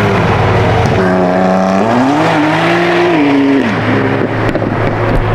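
Sports car engine idling, then revved once: the pitch climbs about a second in, holds briefly and drops back to idle about four seconds in.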